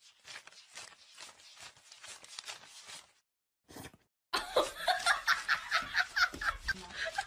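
A person laughing, faint at first, then breaking into loud rapid laughter about four seconds in.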